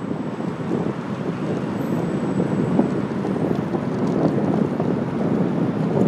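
Wind buffeting a handlebar-mounted phone's microphone on a moving bicycle: a steady rushing noise, broken by many small knocks and rattles from the ride.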